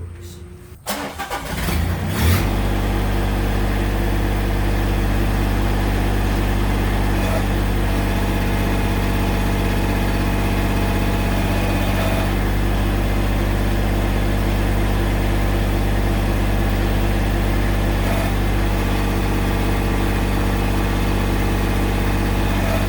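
Massey Ferguson GC1710 subcompact tractor's three-cylinder diesel engine cranking and catching about two seconds in, then idling steadily.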